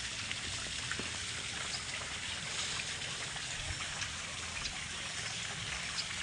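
Running water: a steady trickling and splashing hiss with scattered small drip-like ticks.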